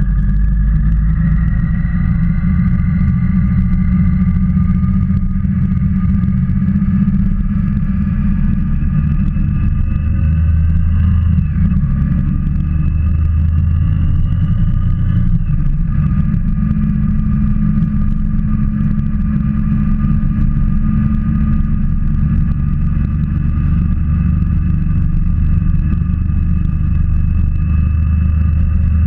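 Motorcycle engine running under way, with a heavy low rumble. Its pitch climbs slowly and then drops abruptly, about eleven and fifteen seconds in.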